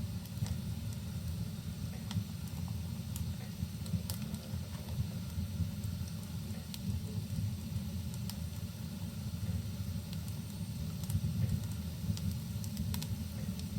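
Rain and a wood fire burning in a fireplace: a steady low rushing noise with scattered sharp crackles and pops from the burning wood.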